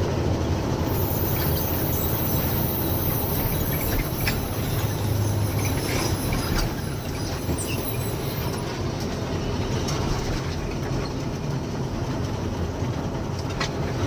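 Loaded diesel lorry driving: a steady engine drone under road noise, with a few light knocks.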